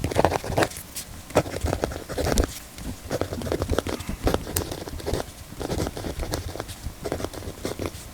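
Zebra DelGuard mechanical pencil being handled and written with: a run of irregular small clicks, taps and scratches.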